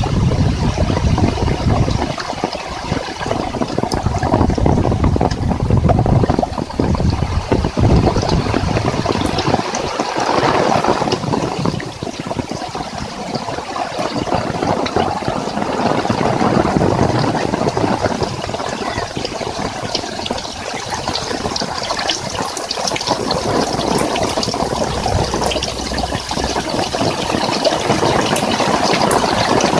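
Heavy rain pouring steadily, a dense crackle of drops, with a low wind rumble that swells and fades several times.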